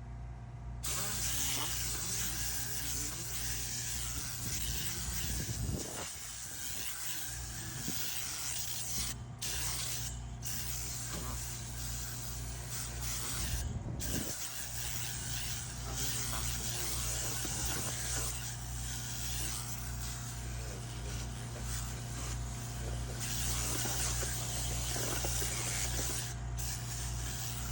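Compressed air hissing from a blow gun during interior cleaning, broken off briefly a few times, over a steady low hum.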